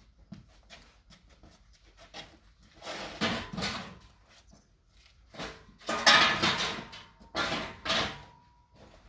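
A few light clicks, then three loud spells of rough scraping and clattering, the longest and loudest about six seconds in.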